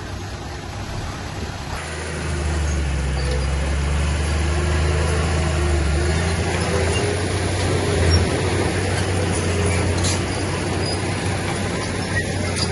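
Heavy diesel engine of earthmoving machinery running steadily, picking up load about two seconds in, with a couple of sharp knocks later on.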